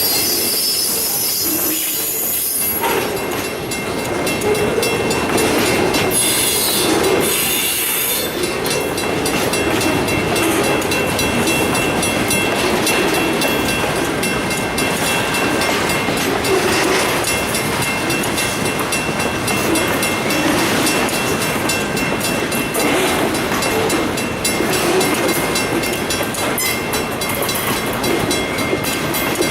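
Freight train cars rolling past with a steady wheel-on-rail rumble and clatter. A high wheel squeal comes in the first few seconds and again about seven seconds in.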